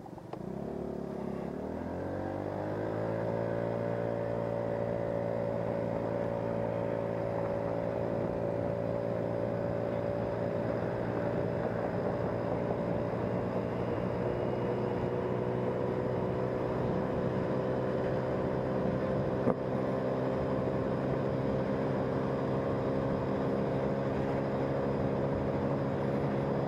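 Engine of the vehicle being ridden pulls away, its pitch rising over the first couple of seconds, then settles into a steady drone at cruising speed.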